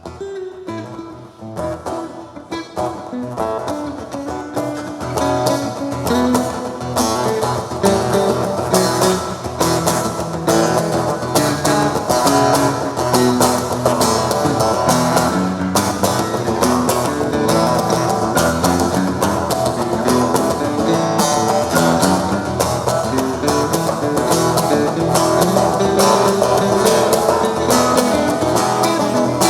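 Guitar playing a wordless instrumental passage, strummed and picked. It comes in out of a brief lull and builds in loudness over the first several seconds, then holds steady.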